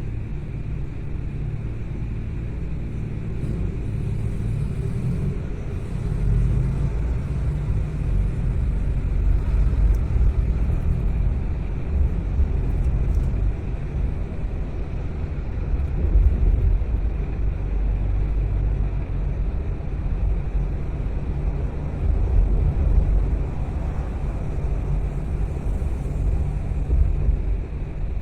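A car driving: a steady low rumble of engine and tyres on the road, swelling and easing a little as it goes.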